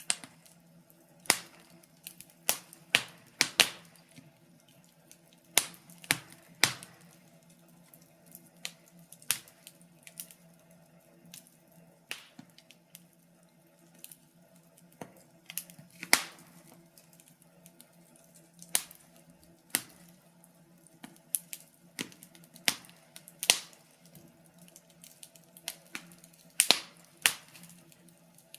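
Wood fire crackling: irregular sharp snaps and pops, several close together in places, over a faint steady low background.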